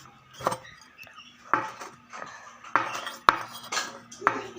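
Cutlery clinking and scraping against a plate while eating, in short strokes about once a second, with one sharp clink a little past the middle.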